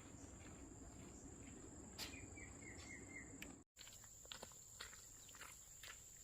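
Faint rural outdoor ambience: a steady high-pitched insect drone throughout, a short run of quick chirps about two seconds in, and after a brief cut near the middle, scattered faint light taps.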